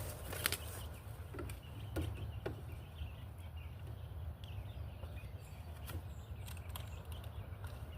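Low outdoor rumble with scattered light clicks and taps, and faint bird chirps about halfway through.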